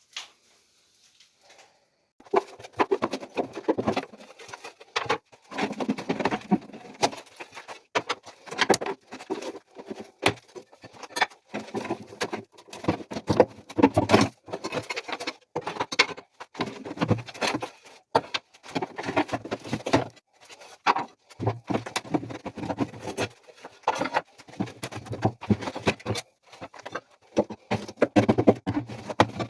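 Hand renovation work: an irregular clatter of tapping, knocking and scraping, starting about two seconds in and going on with short pauses.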